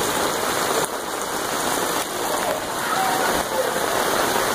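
Heavy rain falling steadily, a continuous hiss of rain on hard surfaces.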